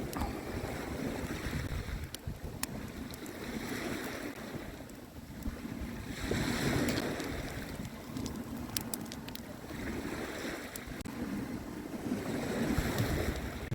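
Small waves washing onto the beach, the surf swelling and falling back every three to four seconds, with wind rumbling on the microphone and a few faint clicks.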